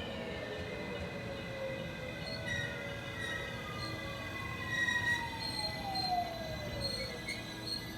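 Electric multiple unit train running through the station: a motor whine falls steadily in pitch over several seconds, the sign of the train braking, over steady high squealing tones from wheels and brakes.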